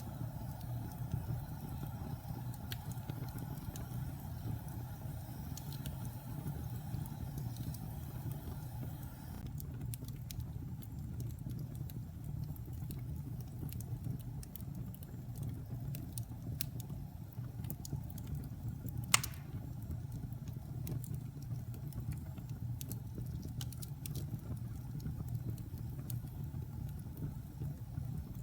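Wood fire burning in a fireplace: a steady low rumble of flames with small scattered crackles, and one sharp pop about two-thirds of the way through. A faint hiss under it drops away about ten seconds in.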